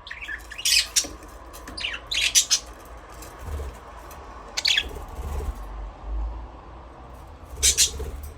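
Budgerigars chirping and squawking in several short bursts of high, scratchy calls: about four clusters, the loudest near the start, just after two seconds in and near the end.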